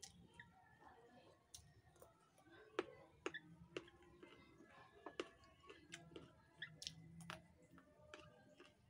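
Faint eating sounds of raw vegetables picked by hand and chewed: irregular sharp clicks and crunches, a few louder ones around the middle.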